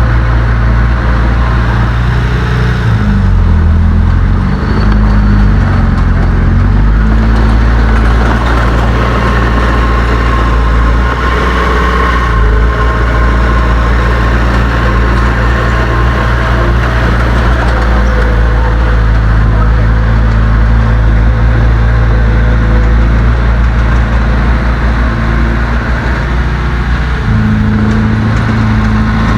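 Heavy diesel engine of earthmoving machinery running loud and close, its pitch shifting up and down for a few seconds near the start and again near the end.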